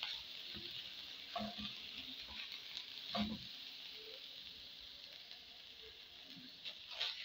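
Spiced beef samosa filling sizzling gently in a pan in its last minute of cooking, with a few scrapes of the spoon as it is stirred.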